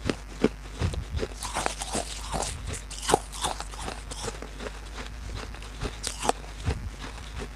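Close-miked crunching and chewing of brittle baked clay pot pieces: irregular sharp cracks and crackles, several a second, with one loud crack about three seconds in and another near the end.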